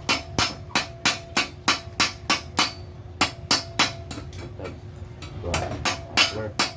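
Hammer blows on metal, an even run of about three strikes a second with a faint ring after them, pausing briefly twice midway. The work is part of hand-forming a homemade jet-style exhaust muffler.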